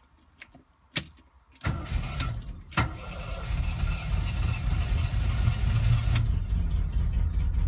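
1969 MGB GT's 1.8-litre four-cylinder engine being started: a few clicks from the key, then it fires about two seconds in and settles to a steady idle. The idle speed is slightly off and needs adjusting a little.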